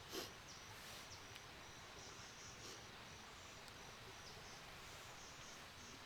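Faint insect chirping, a thin high note repeated in short pulses over quiet background hiss, with a brief soft rustle at the very start.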